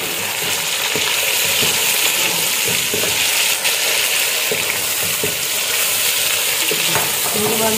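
Raw chicken pieces sizzling in hot oil with fried onions in a steel pot, stirred with a spatula that scrapes and knocks against the pot now and then. A steady hiss of frying runs under the strokes.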